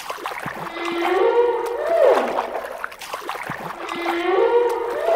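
Whale calls: a held moaning tone that turns into an arching whoop, rising and then falling away, repeated in an even loop about every two and a half seconds, twice here, with a few faint clicks between.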